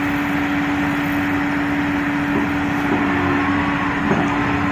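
A steady machine engine drone with a constant pitched hum underneath, typical of heavy equipment running.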